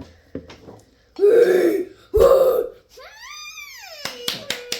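Pet bird vocalising: two short, low, rough calls, then one long call that rises in pitch and slides back down. Quick taps begin near the end.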